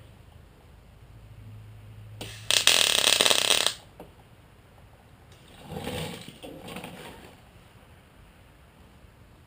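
A short burst of MIG welding on sheet steel, about a second and a half of crackling arc, with a low electrical hum just before it. A few seconds later come two softer, duller noises.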